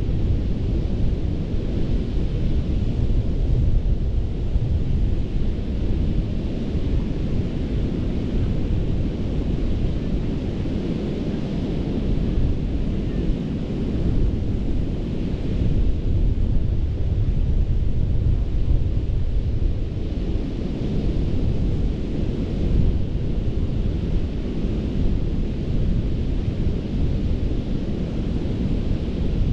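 Gulf of Mexico surf breaking and washing up on a sandy beach: a steady rush of waves with a heavy low rumble that swells and eases.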